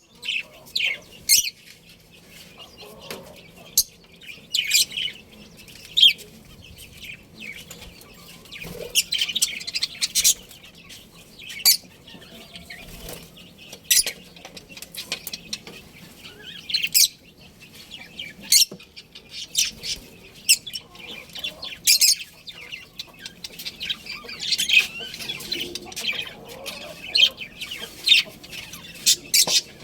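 Budgerigars chirping: many short, high-pitched chirps in an irregular, busy chatter.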